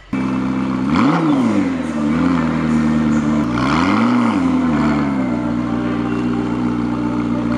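McLaren P1's twin-turbo V8 idling and being revved in short blips. One sharp blip comes about a second in, a small one near two seconds, and a longer one around four seconds, each rising and falling back to idle.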